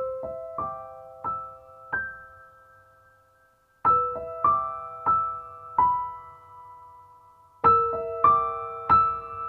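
Background music: a solo piano playing slow, gentle broken chords in three short phrases of four or five notes each, every note left to ring on.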